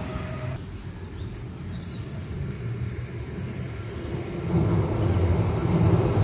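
A train running past: a low rumble that eases off about half a second in and builds up again after about four seconds.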